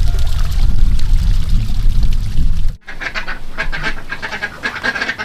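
A loud, low rushing noise that cuts off abruptly about three seconds in. It is followed by ducks quacking in a rapid, overlapping string of calls.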